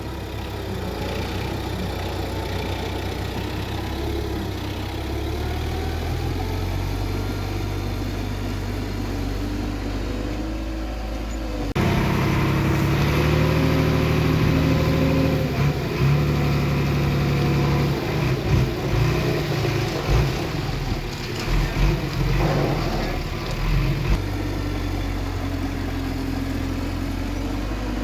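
Bulldozer diesel engine running steadily. About twelve seconds in it jumps suddenly louder, then surges and dips over and over for several seconds before settling back to a steady run.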